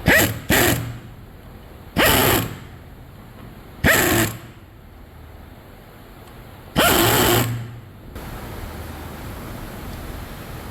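Five short bursts from a pneumatic power tool on an engine assembly line, each starting suddenly and lasting under a second, the last one longest. A steady workshop hum runs underneath.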